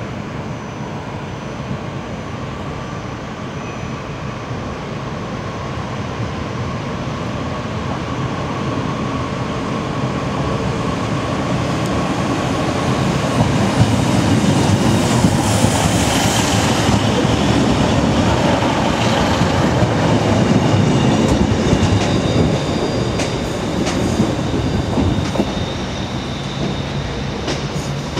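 ScotRail multiple-unit passenger train running past close along a station platform, wheels rumbling and clacking over the rail joints. It grows louder to a peak in the middle and eases off near the end.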